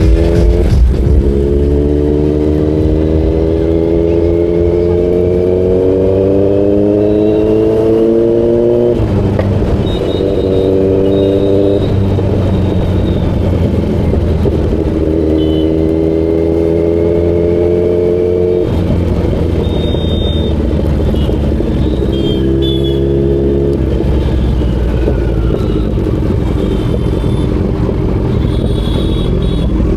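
Kawasaki Z900's inline-four engine pulling hard through the gears. Its pitch climbs steadily, then drops at each upshift, twice in the first twenty seconds, before settling into a steadier run.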